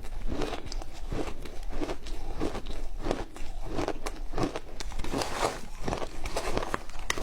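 Crunchy ice with matcha being chewed in steady crunches, about two a second.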